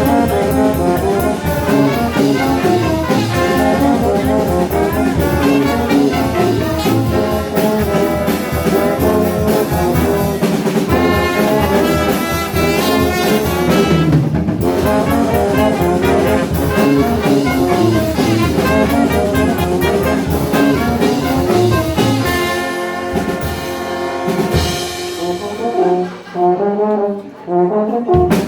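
Brass band playing a metal cover live: trombones and trumpets carry the riffs over a fast drum kit. About two-thirds of the way through the drums drop out and the brass plays on alone, with two short breaks near the end.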